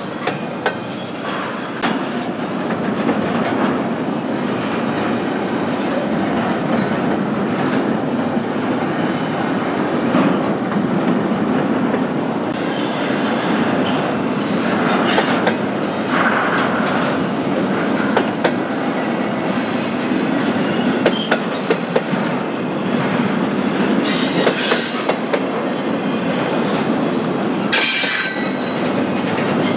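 Freight train cars rolling past at close range, wheels clacking over rail joints, with high-pitched wheel squeal coming and going several times in the second half.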